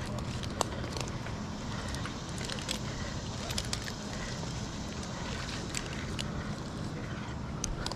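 An engine running steadily at low revs, with scattered sharp clicks and crackles over it.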